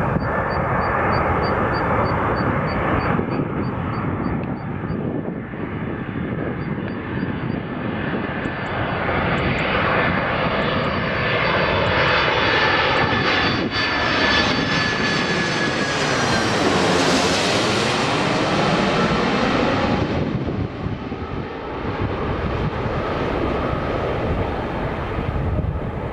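Boeing 767-300F cargo jet on landing approach, its twin jet engines passing low and close. The engine noise and a high whine build to a peak about two-thirds of the way through, with the sound sweeping as it goes by, then drop off sharply.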